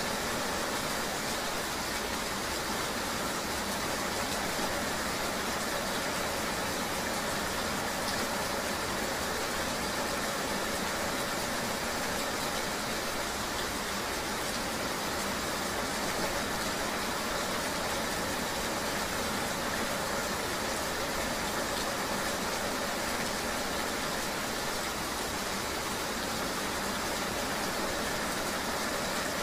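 Steady ambience of rain together with the even hum of a running vehicle, an unbroken wash of noise with no distinct events.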